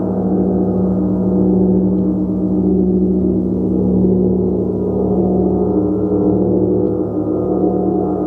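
Gong ringing in a steady, dense wash of many overlapping tones, with a strong low hum and no separate strike standing out.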